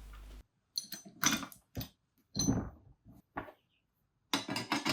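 A few separate metal clinks and knocks, some with a brief ring, as a socket and bearing-press tool are handled and fitted against a swingarm bearing.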